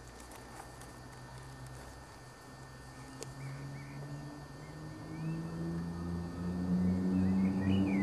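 A few short, faint bird chirps over a low, steady mechanical drone that grows louder in the second half.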